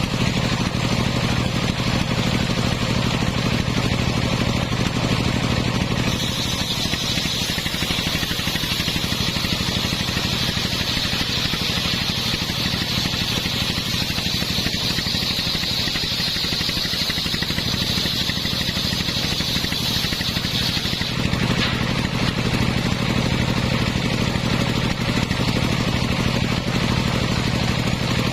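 Engine-driven homemade circular saw rig running steadily. From about six seconds in until about twenty-one seconds a high, steady whine rises over the engine as the blade cuts through the coconut-palm trunk.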